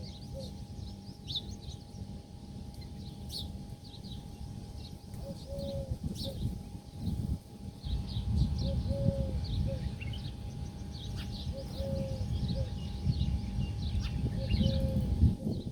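Several small birds chirping and twittering in quick, high notes, with a short lower call repeating every three to four seconds. A low rumble underneath grows louder about halfway through.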